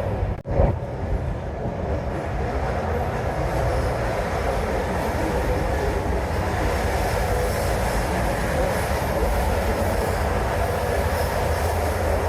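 Sleeper train carriage running along the track, heard from inside the corridor: a steady rumble and rattle. About half a second in the sound cuts out briefly, then there is a short loud knock.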